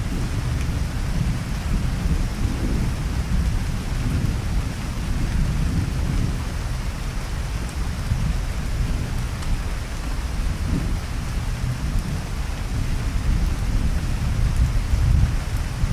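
Steady rain with a continuous low rumble of rolling thunder, the rumble swelling and fading in waves and building a little near the end.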